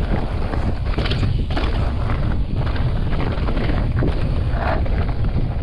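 Wind buffeting an action camera's microphone while a mountain bike rolls along, with tyre noise and a few short clatters from the bike.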